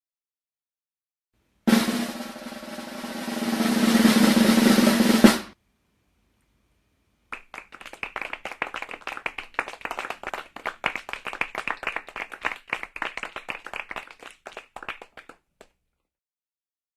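Music at the close: a swell of about four seconds that grows louder and stops sharply, then, after a pause, a rapid snare drum roll of about eight seconds that fades away.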